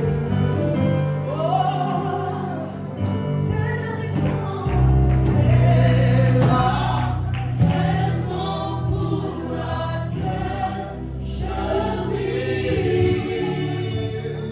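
Gospel worship music: a choir singing over a band with a steady bass.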